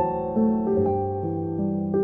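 Slow, gentle piano music: single melody notes struck about every half second over sustained lower chords.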